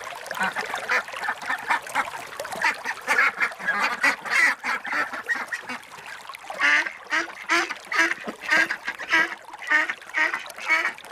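Ducks quacking repeatedly, the calls thick and overlapping at first, then settling into a run of about two quacks a second.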